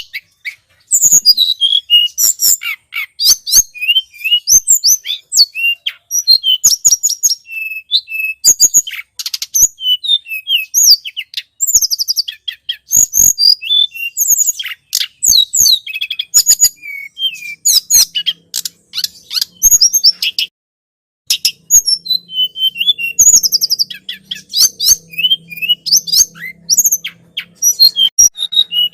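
Bird-lure recording of tledekan gunung calls: rapid, thin, high chirps and ticking notes in continuous runs, with a brief pause about twenty seconds in. A faint low hum sits underneath in the second half.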